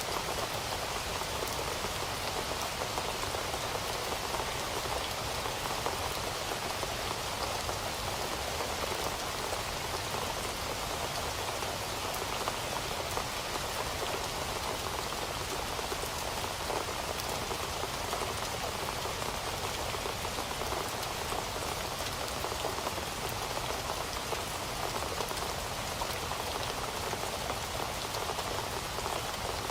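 Heavy rain falling steadily, an even hiss of many drops hitting surfaces with no thunder.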